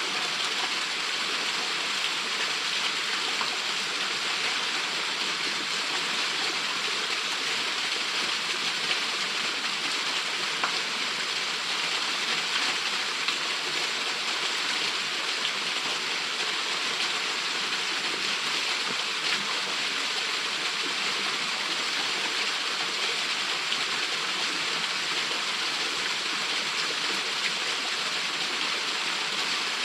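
Small waterfall pouring steadily into its plunge pool, a constant rushing hiss with no changes.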